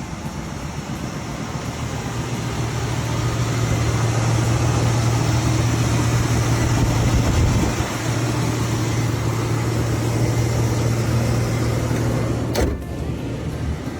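1977 Oldsmobile 88 Royale's engine running with a steady low hum that grows louder over the first few seconds, broken by a sharp click near the end.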